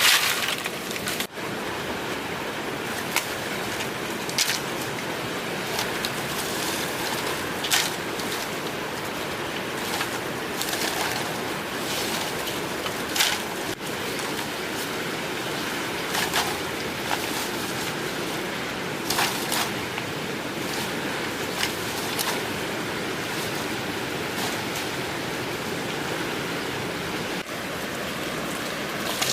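Steady rush of flowing water, with a few short sharp knocks or splashes scattered through it.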